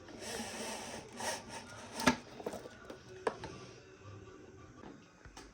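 Parts being handled at a workbench: a rough scrape, then a few sharp knocks, the loudest about two seconds in.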